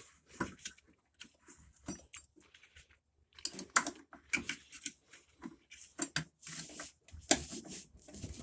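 Scattered light clicks and metallic clatter of hand tools and small washer parts being handled, in short irregular bursts with quiet gaps between them.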